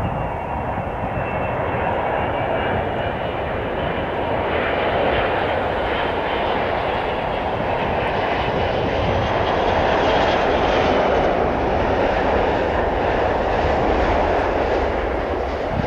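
Airliner's engines running as the plane passes, a loud steady noise with a faint high whine that drifts in pitch.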